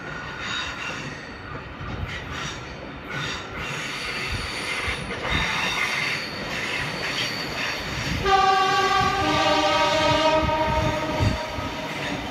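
Electric passenger train running along the line, its wheels giving a faint high squeal on the curves, then sounding its horn about eight seconds in: a long two-note blast, the second note lower, lasting about three seconds.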